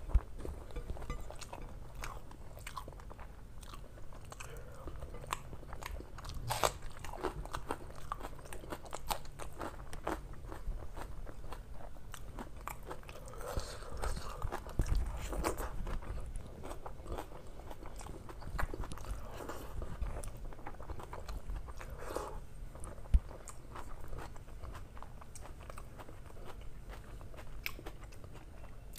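Close-miked eating sounds: chewing and lip-smacking on mouthfuls of rice and egg curry eaten by hand. A steady run of small wet mouth clicks, with a few sharper ones.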